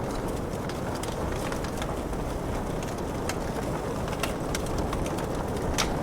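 Wood fire crackling, with sharp pops scattered irregularly and one louder snap near the end, over a steady hiss of falling rain.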